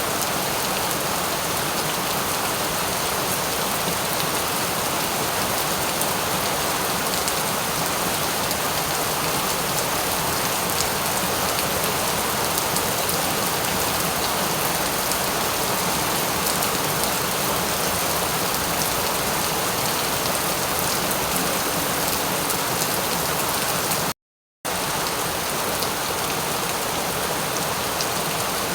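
Steady heavy rain falling, an even hiss of drops with no thunder. It cuts out to silence for under half a second about three-quarters of the way through, then resumes unchanged.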